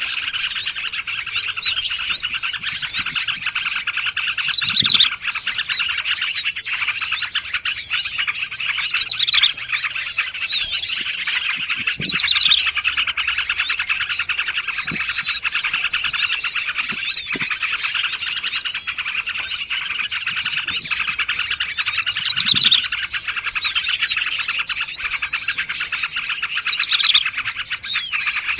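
Dense chorus of small songbirds chirping and trilling rapidly over one another without a break: a layered bird-lure recording.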